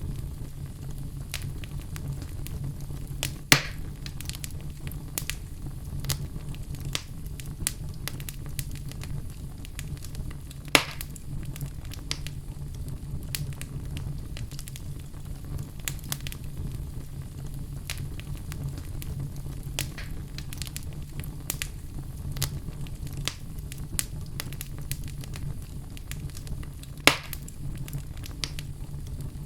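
Wood fire burning in a fireplace: a steady low rumble under dense, irregular crackling, with three louder, sharper pops, one a few seconds in, one about a third of the way in and one near the end.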